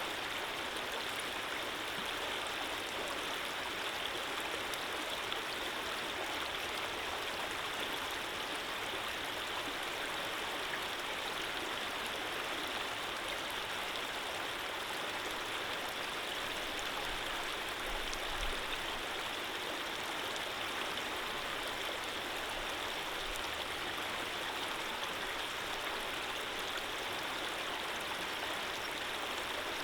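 Running water: a steady, even rushing flow like a stream, with no change in strength.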